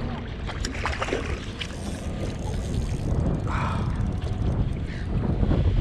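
Wind buffeting the microphone with a steady low rumble, over a few short splashes of water at the kayak.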